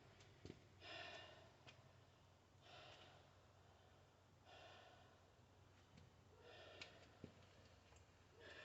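Near silence with a man's faint breathing: four soft breaths about two seconds apart, and a couple of faint clicks.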